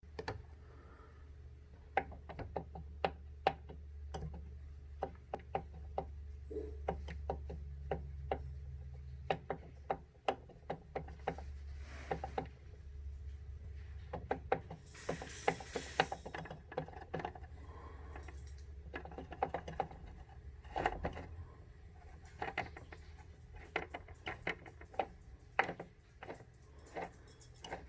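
Concept 2 rowing machine's handle chain and flywheel mechanism being worked: many irregular ratchet-like clicks and knocks over a low steady hum, with a brief hiss about halfway through. It is an unwanted noise, heard with a hesitation as the chain goes back in and comes out that stops only when pulled really hard.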